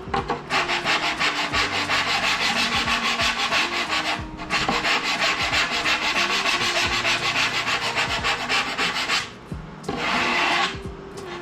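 A hand file rasping over a foam deer head form in fast, even back-and-forth strokes, cutting the muscle-definition lines deeper. The filing pauses briefly about four seconds in and again near nine seconds, then a short last run follows.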